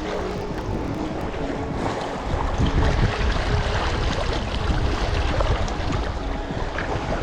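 Wind rumbling on the microphone over open water, with water lapping and splashing around a sea kayak as it is paddled.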